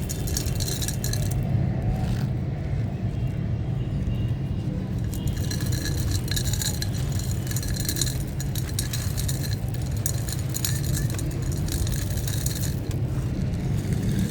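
Crumbly stony material, sand-cement or chalk-like clay, being crushed and broken apart, giving patches of dense fine crackling and crunching that start and stop. A steady low hum runs underneath.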